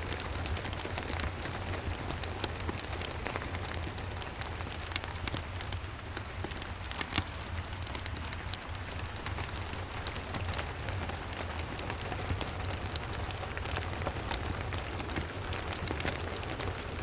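Steady rain, with scattered sharp crackles from a wood fire in a fireplace and a constant low rumble underneath.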